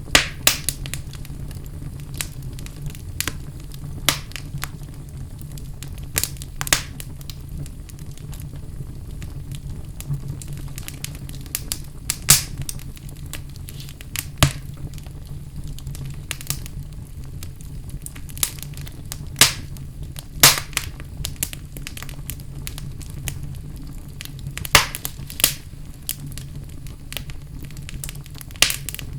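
Fire burning in a fireplace: a steady low rumble of flame with irregular crackles and sharp pops, a few of them much louder than the rest.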